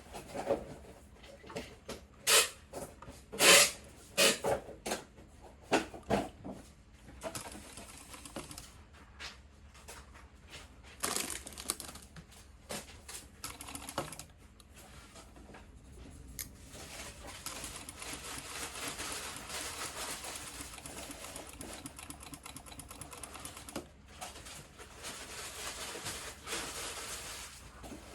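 Sewing machine stitching fabric through a bias-tape binder attachment, running steadily for about ten seconds in the second half. Before that come a series of sharp clicks and knocks from handling the machine and fabric.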